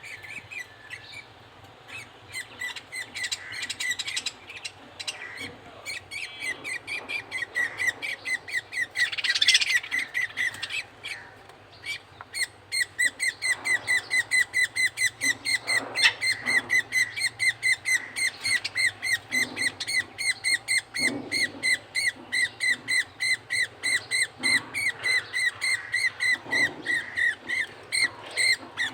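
Budgerigar chick giving high, rapid begging chirps while being fed by the male budgie. The chirps are irregular at first, then settle into a fast, even run of several a second from about halfway.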